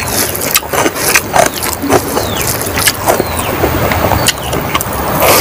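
Close-miked eating sounds: chewing with wet mouth smacks and clicks, while fingers mix and squeeze rice and curry on the plate.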